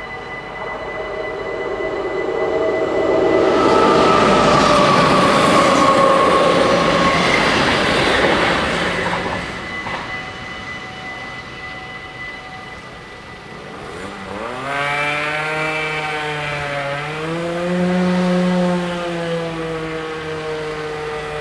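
Level-crossing bells ring steadily while a DDAR double-deck train passes at speed, loudest in the first half, its tones falling as it goes by. The bells stop around halfway. Then a motor vehicle's engine accelerates, rising in pitch, dropping back at a gear change and rising again.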